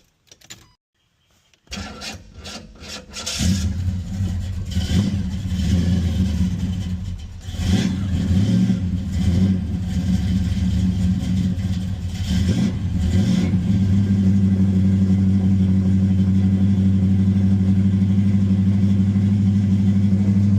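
Car engine cranking for a moment and starting, then revved a few times before settling into a steady idle.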